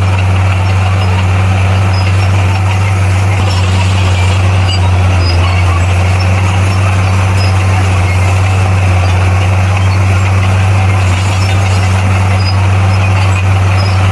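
Diesel engine of heavy earthmoving equipment running steadily at constant speed: a deep, unchanging drone with a rough mechanical noise above it.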